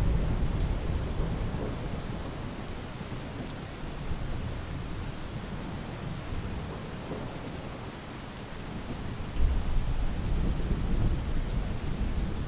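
Steady rain falling, with scattered sharp drop ticks, over rolling thunder: a low rumble that dies down over the first few seconds and swells again, louder, about three-quarters of the way through.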